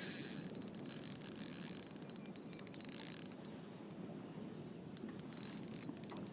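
Fishing reel clicking in rapid runs of ticks while a hooked flathead is brought in.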